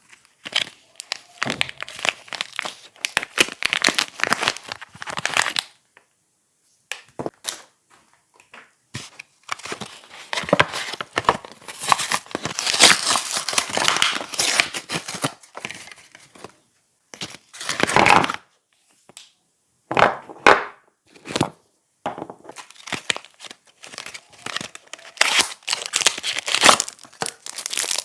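Soap packaging being crinkled and torn open by hand, in bursts of crackling with short pauses between.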